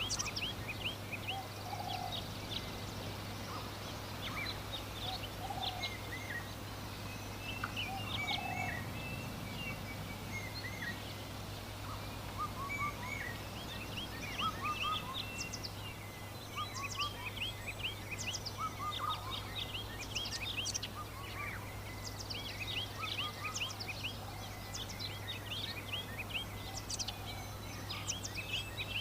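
Many birds chirping and twittering in quick short notes, with a lower call repeating every couple of seconds in the first third, over a steady low hum.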